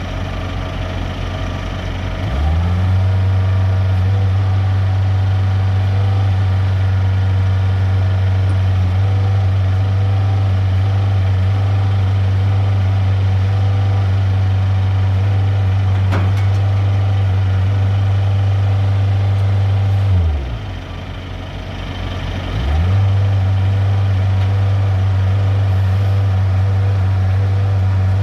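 Side-loader truck's diesel engine raised from idle to a steady higher speed for unloading a shipping container. About 20 seconds in it drops back to idle, then revs up again a couple of seconds later and holds.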